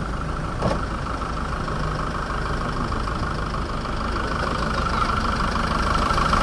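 Land Rover Defender engine idling steadily, growing louder as its bonnet is lifted, with a short knock under a second in.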